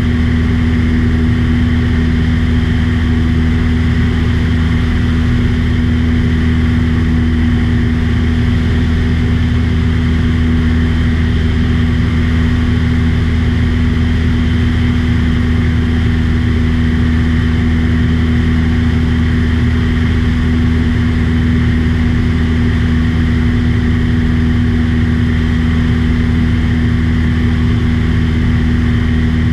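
Aircraft engine droning steadily at constant power, heard from inside the cabin, with a strong even low hum that does not change.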